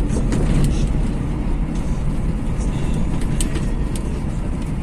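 Trabant 601's two-cylinder two-stroke engine running steadily as the car drives over a bumpy road, a loud low rumble. A few sharp clicks and rattles cut through it.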